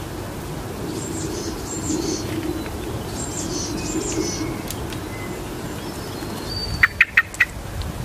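Songbirds calling: several thin, high chirps in the first half, then four sharp, loud notes in quick succession near the end, over a steady low hum.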